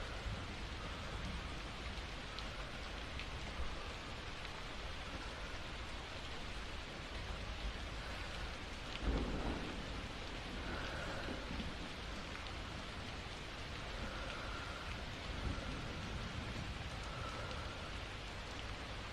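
Steady rain falling, with a clap of thunder about halfway through that rolls off over a second or two.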